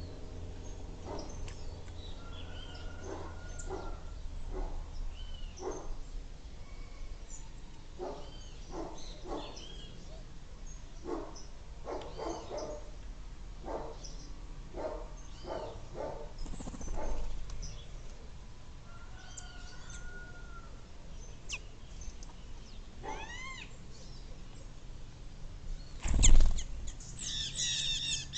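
Wild birds chirping and calling, with many short knocking or tapping sounds in between. Near the end comes one loud thump, followed by a dense burst of harsh, overlapping squawking calls.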